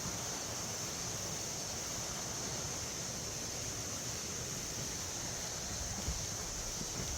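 Steady rushing of a mountain valley stream, with a constant high-pitched hiss above it and a low thump near the end.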